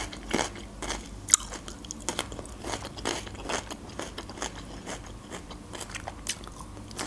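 Raw red bell pepper being bitten and chewed: a run of irregular crisp crunches, one louder than the rest about a second in.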